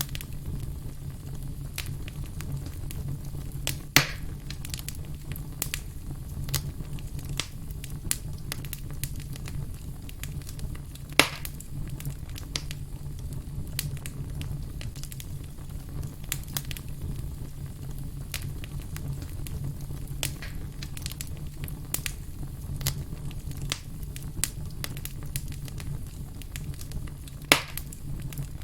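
Wood campfire crackling, with frequent small snaps over a low steady rumble. Three louder pops come about 4 seconds in, about 11 seconds in, and near the end.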